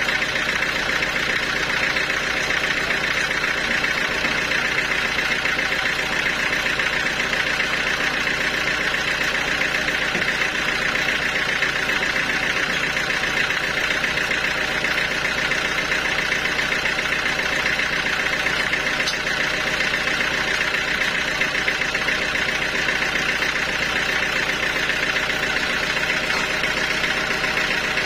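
Sawmill machinery running steadily, an even machine hum that does not change.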